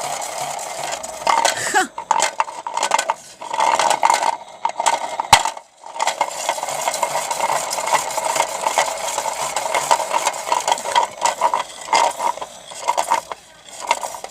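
Toy washing machine's small motor running with bricks rattling and clattering about in its drum, in irregular clinks and knocks over a steady whirr.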